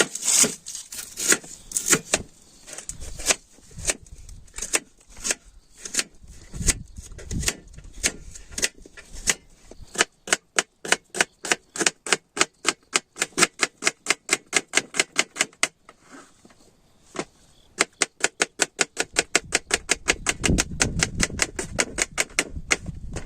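Knife chopping vegetables on a cutting board: irregular cuts at first, then two long runs of rapid, even strokes at about five a second.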